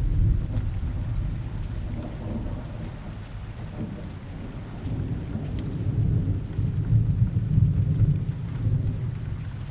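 Steady rain with rolling thunder, the low rumble swelling near the start and again in the second half.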